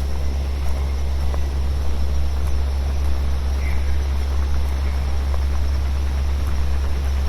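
Synthesized brown and pink noise from a VCV Rack modular patch: a steady deep rumble with an even hiss above it. It is mixed with a forest field recording, in which a faint short chirp is heard about halfway through.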